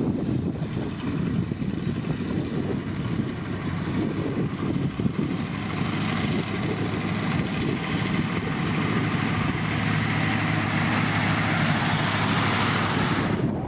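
Diesel engine of heavy road-construction machinery running steadily, with a low hum that grows stronger in the second half.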